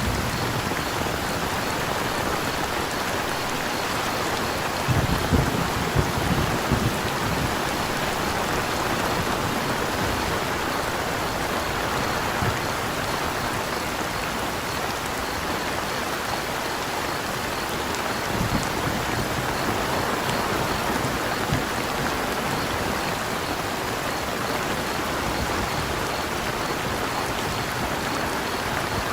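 Steady rain pattering, with crickets chirping faintly in a high, even pulse beneath it. A few low thuds stand out about five to seven seconds in, and another comes later.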